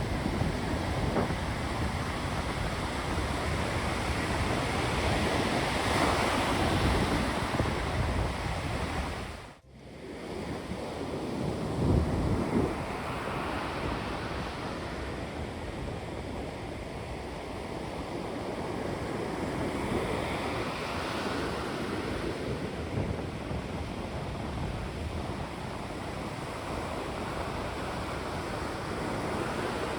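Sea waves surging and washing onto the shore, with wind buffeting the microphone. The sound cuts out for a moment about ten seconds in, and a wave breaks loudly soon after.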